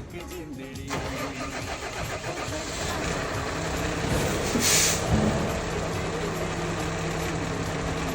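A vehicle's engine starting and then idling steadily, with a short hiss about four and a half seconds in.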